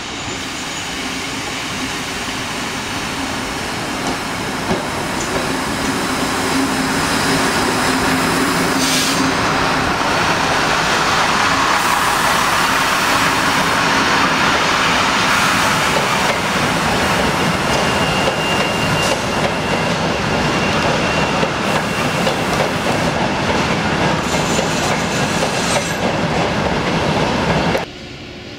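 Regional passenger train rolling in along the platform, its wheels clattering over the rail joints and growing louder as the carriages pass close by. A thin high squeal sounds for a few seconds past the middle, and the sound cuts off abruptly near the end.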